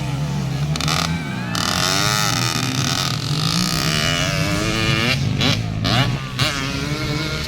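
Several dirt-bike engines revving during a race, their pitches rising and falling and overlapping.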